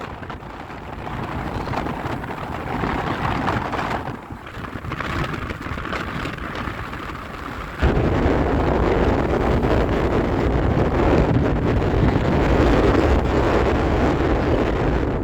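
Wind rumbling on the microphone. It jumps suddenly louder about eight seconds in.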